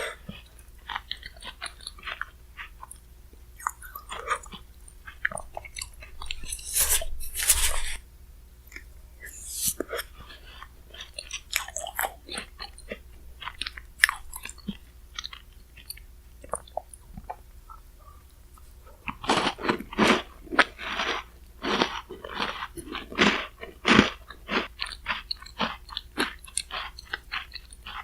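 Close-miked eating of bingsu, shaved ice topped with Chic Choc chocolate cookie pieces: crisp crunching and chewing with short clicks and a few scraping sounds. The crunching is densest and loudest for several seconds about two-thirds of the way in.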